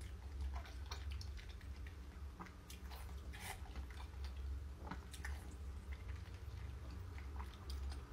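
A woman chewing and biting into a large fried bun, close to the microphone: wet mouth smacks and small clicks come scattered and irregular, over a steady low hum.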